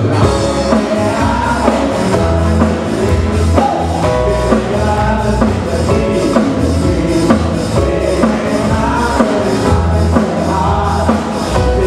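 Live band playing Hawaiian music with a steady beat and melodic instrumental lines.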